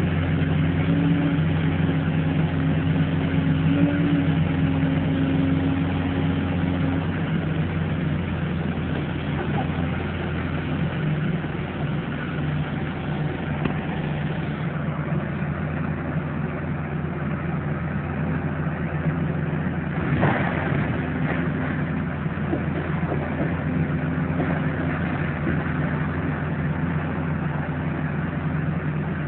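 Diesel engine of a demolition machine running steadily, its note shifting slightly now and then, with a single knock about twenty seconds in.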